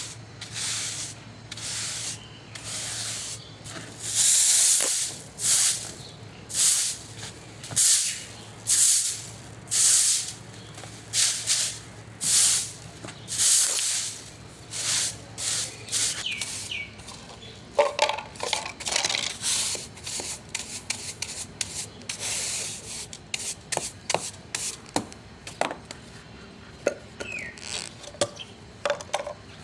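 Scrubbing strokes, about one a second at first, then shorter and quicker from about two-thirds of the way in.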